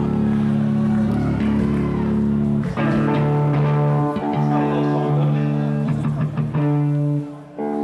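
Live band playing a song intro led by electric guitar: held guitar chords ringing out, moving to a new chord about three seconds in, with a brief drop in loudness near the end.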